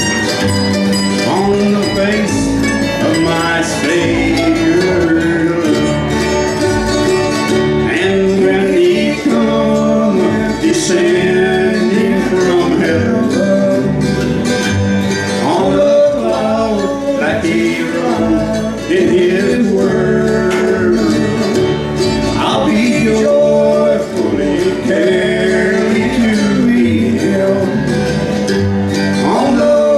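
Live bluegrass band playing a tune on acoustic instruments, at a steady level.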